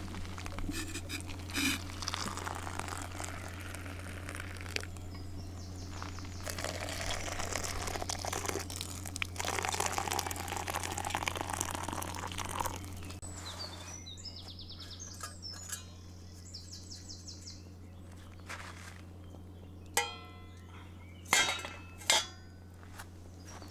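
Small birds trilling over a steady low hum, with a rushing noise during the first half. Three sharp clatters come close together near the end.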